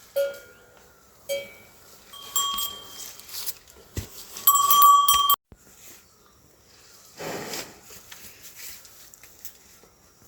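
Goats bleating several times in short pitched calls, the loudest about halfway through and cut off sharply.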